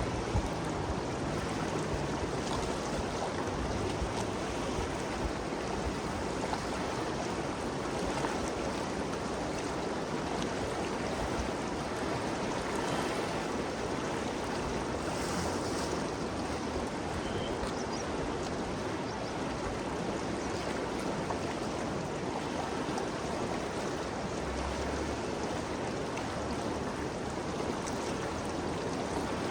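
Ganges River flowing, a steady, even rush of water.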